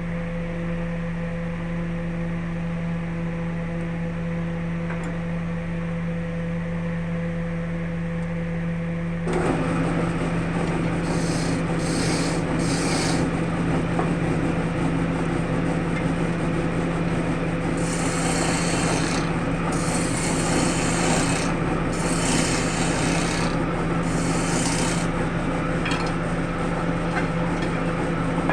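Wood lathe running with a steady motor hum. About nine seconds in, the spinning wood starts being worked, a rubbing, scraping noise with brighter hissing passes in short spells.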